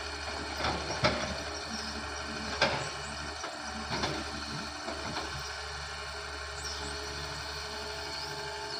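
Doosan excavator's diesel engine running steadily, with a few sharp cracks about one, two and a half and four seconds in.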